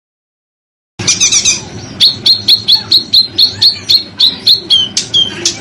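About a second of dead silence, then a songbird calling: a quick burst of dense, high chirps, then a run of sharp, shrill notes that each drop in pitch, repeated about four times a second.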